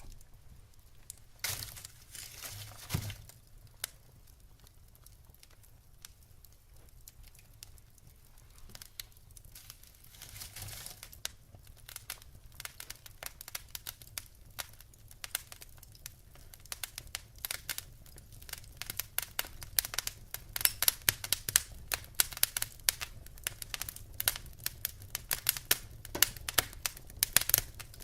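Wood fire in a fireplace crackling, with irregular sharp pops and snaps that come thicker and louder in the second half. A soft rushing sound rises briefly about two seconds in and again around ten seconds.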